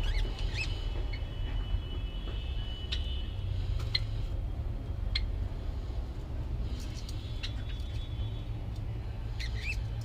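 Small birds chirping with short, scattered calls over a steady low rumble.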